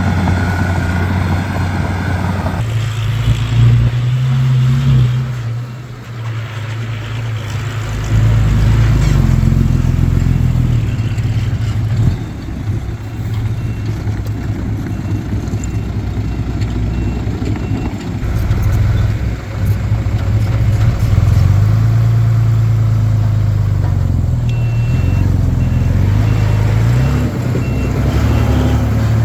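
Komatsu D31P bulldozer's diesel engine working, its pitch rising and falling as the load changes. Faint, evenly spaced reverse-alarm beeping comes in twice in the second half.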